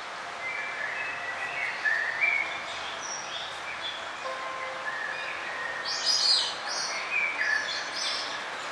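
Small songbirds chirping and whistling over a steady background hiss, with short whistled notes throughout and a burst of louder, higher trilled calls about six seconds in.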